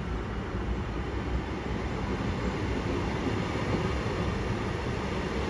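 Train moving along a station platform, a steady rumbling noise that grows a little louder toward the end.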